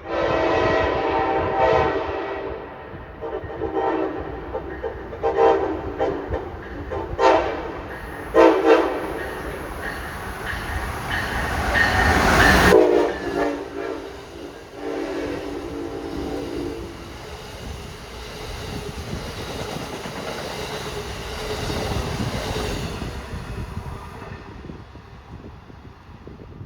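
Locomotive air horn playing a hornshow: a long blast, a string of short toots, then a long blast that grows louder to a peak about 12 seconds in as the train comes close. The horn sounds again for a few seconds after that, then gives way to the rumble and clickety-clack of the passing train.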